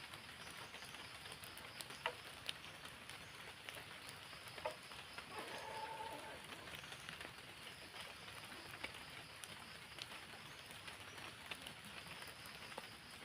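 Steady rain falling, with scattered sharp drips and taps.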